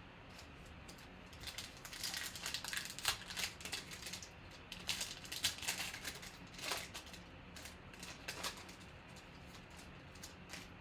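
Football trading cards and their packs being handled, with a run of quick rustling and clicking from about a second and a half in that fades out near the end.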